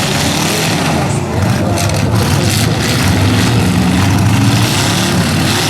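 Pickup truck engines running loud and revving in a demolition derby, with a few sharp knocks about two seconds in.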